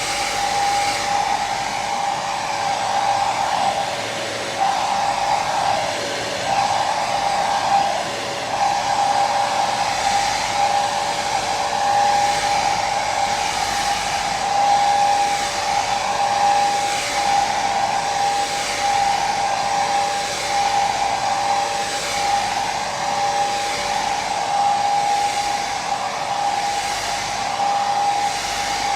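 Hair dryer running steadily: a continuous rush of blown air with a steady motor-and-fan whine.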